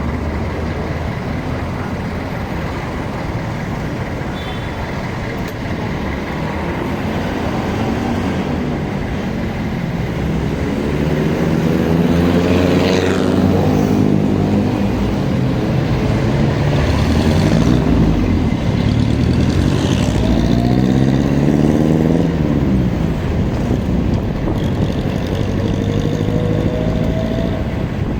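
Engine and traffic noise during a motorcycle ride on a city road. Through the middle stretch a loud engine note climbs and then falls in pitch as an engine speeds up and slows.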